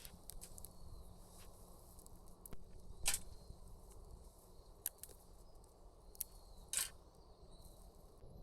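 Scattered short, sharp clicks and crackles over a low steady background, the loudest about three seconds in and again near seven seconds.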